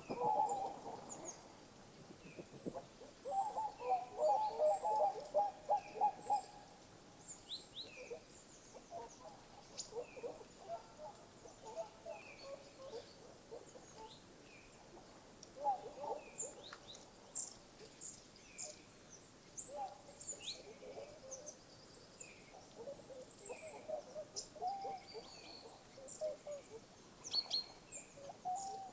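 Several birds calling: bouts of low, quickly repeated notes, the loudest a few seconds in, over many short high chirps and whistles from smaller birds.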